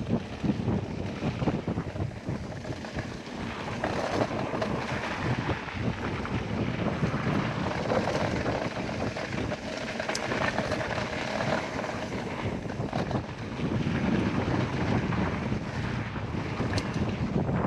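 Wind buffeting the GoPro Max microphone as a mountain bike rolls down a dirt trail, a continuous uneven rush with the tyre and bike noise underneath and a few sharp clicks or knocks.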